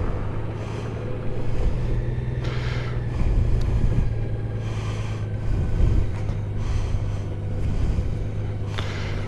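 Motorcycle engine running steadily with a low hum, under a rush of wind noise.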